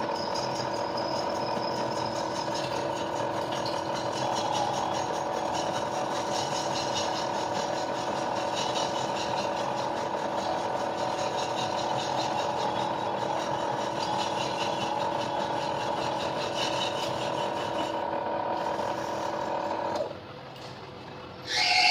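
Machine tool running steadily while cutting metal, a constant hum with several fixed tones and a fine rapid chatter, then spinning down about 20 seconds in. A brief louder metallic sound comes right at the end.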